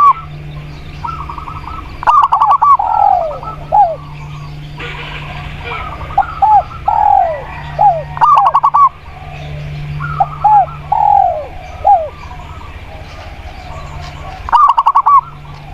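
Doves cooing in repeated phrases, each a fast stuttering run of notes followed by a few short falling coos, about every six seconds, over a steady low hum.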